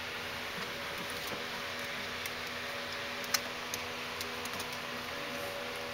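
Steady background hiss with a faint hum, and scattered light ticks and clicks, one sharper click about halfway through.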